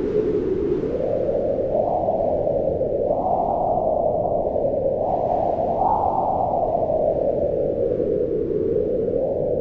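Mountain wind howling steadily, its pitch slowly rising and falling as gusts swell and ease.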